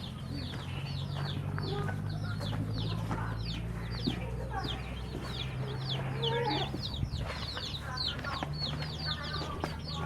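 A flock of chickens calling, with many short, high, downward-falling chirps overlapping throughout. A steady low hum runs underneath.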